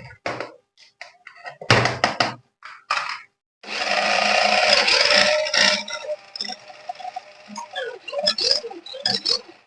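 Handling noises: a run of short clatters and knocks, with a longer rustling, scraping stretch a little before the middle.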